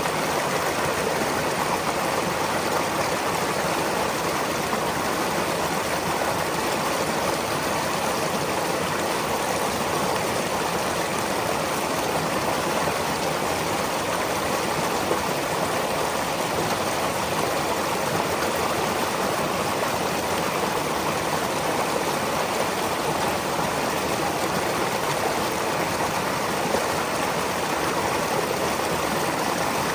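Stream of water flowing and babbling over stones, a steady, even rush with no pauses.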